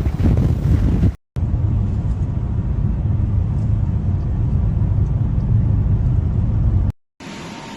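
Gusty blizzard wind buffeting the microphone, cut off about a second in; after a brief gap a steady low rumble takes over, cut off again near the end.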